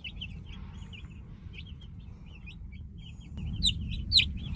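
Cornish Cross chicks peeping: soft scattered cheeps, then a few loud, high, falling peeps from about three and a half seconds in.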